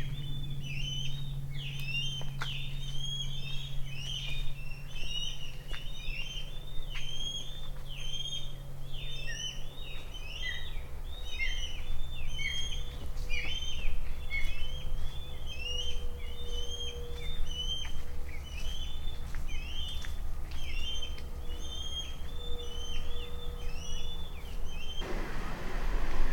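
A flock of birds calling continuously, many short chirps overlapping, with a steady low hum underneath. The chorus cuts off suddenly near the end.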